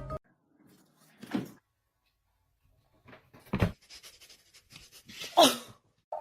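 A dog panting and huffing in a few short breaths with quiet gaps between; the loudest, near the end, falls in pitch.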